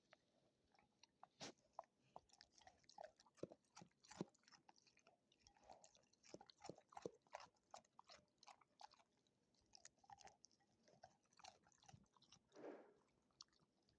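A dog chewing and crunching food, with quiet, irregular crunches and mouth clicks. There is a short breathy sound near the end.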